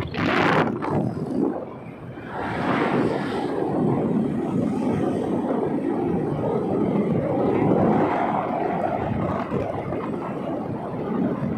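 Motorcycle riding along a road: a steady engine and road drone mixed with wind rushing over the microphone, with brief louder gusts at the start and about three seconds in.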